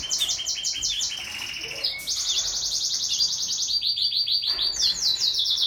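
Baby birds begging: a continuous run of rapid, high-pitched, down-slurred chirps, about ten a second.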